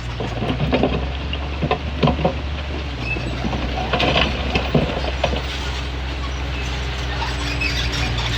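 Komatsu D20P crawler bulldozer working: its diesel engine runs steadily, the engine note shifting a couple of times as the load changes, under repeated clanking and rattling from the steel tracks.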